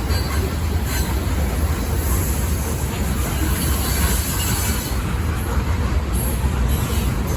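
Freight train cars rolling past on the rails: a steady, continuous rumble of steel wheels on track.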